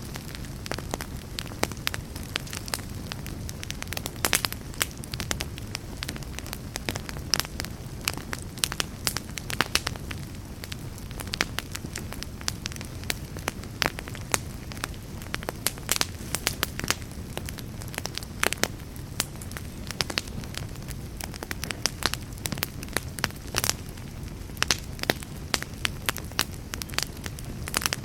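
Wood fire burning in a fireplace, with a steady low rumble of flame under frequent irregular crackles and sharp pops from the burning logs.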